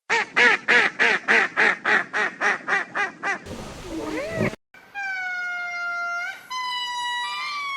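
A succession of animal calls. First comes a fast run of short calls, about four a second, for roughly three seconds. After a brief noisy stretch and a short break, several long calls follow, each held at a steady pitch, stepping from one pitch to the next.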